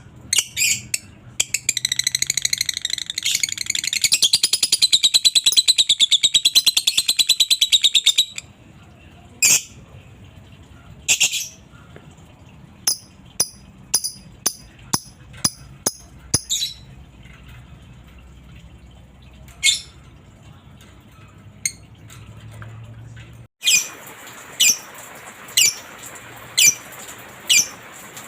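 Lovebird giving a long, rapid, high chattering trill (the 'ngekek' song) for about seven seconds, then scattered sharp chirps. Near the end, after an abrupt change in background, a lovebird gives short high chirps about once a second.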